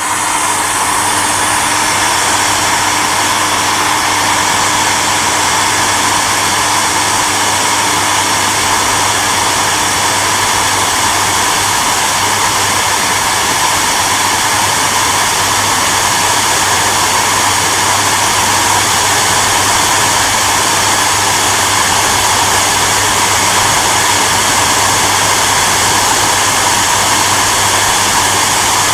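Electric hair dryer running steadily: a loud, even rush of blown air over a low motor hum.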